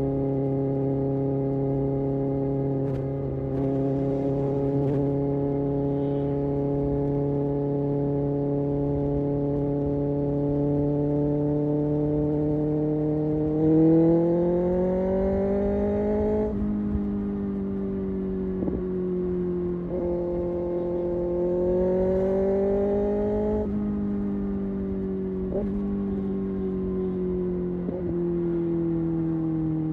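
Kawasaki Ninja ZX-6R inline-four engine and exhaust under way, running at steady revs for about the first half. Then the revs climb twice, each time ending in a sudden drop at a gear change, and near the end they ease off slowly.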